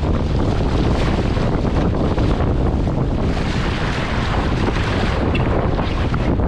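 Strong wind blasting across the microphone, a steady low rumble, with the rush of choppy water beneath it.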